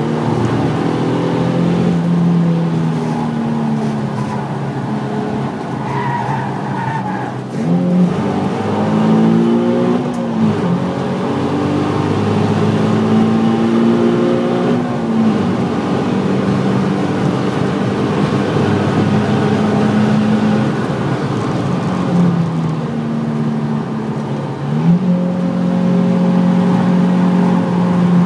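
Nissan 350Z's 3.5-litre V6 heard from inside the cabin while lapping hard. The engine note holds and climbs, then drops sharply and rises again several times.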